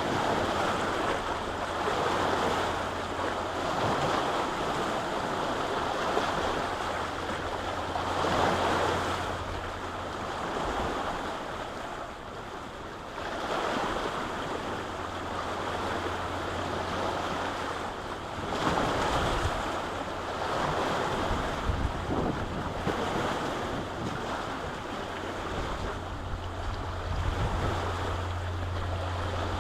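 Lake waves washing onto the shore, swelling and receding every four to five seconds, with wind rumbling on the microphone at times.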